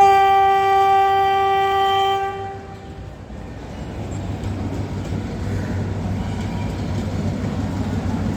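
Diesel locomotive horn sounding one steady single-pitched blast of about two and a half seconds, then a diesel locomotive engine running with a steady low rumble that grows slightly louder.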